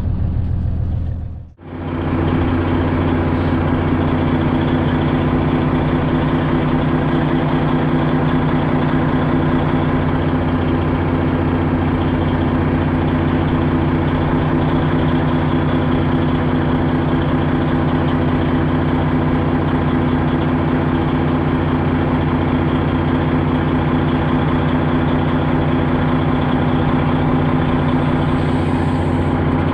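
Diesel semi-truck engine, a 12.7-litre Detroit Diesel Series 60, idling steadily. The sound drops out briefly about a second and a half in.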